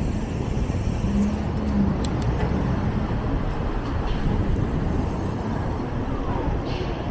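Steady rumble of city street traffic. A few faint clicks come about two seconds in.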